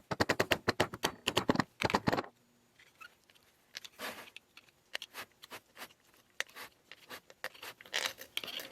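Hydraulic cylinder piston seals, rings and small parts being handled on a workbench. A quick run of clicks and rattles lasts about two seconds, then scattered taps and scrapes follow.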